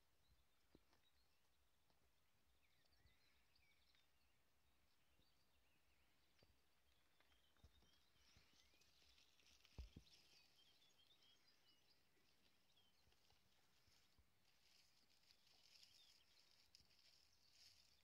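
Near silence with faint bird calls and song, more of them in the second half, and one soft low thump about ten seconds in.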